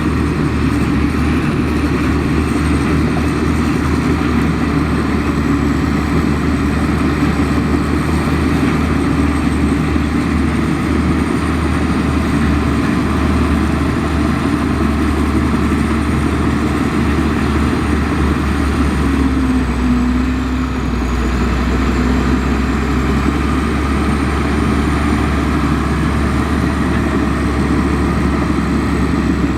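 Bulldozer's heavy diesel engine running steadily, with a brief dip in pitch about two-thirds of the way through.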